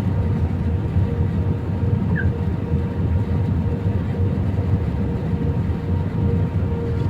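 Airbus A319 cabin noise during the approach: a steady low drone of engines and airflow, with a faint steady hum above it.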